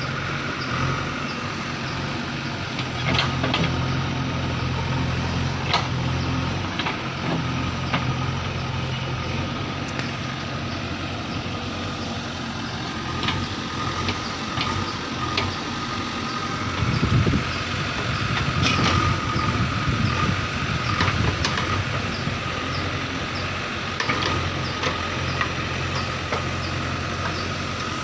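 Heavy diesel engines of farm tractors and a backhoe loader running steadily, with a louder, rougher stretch of revving under load in the second half and a few sharp knocks.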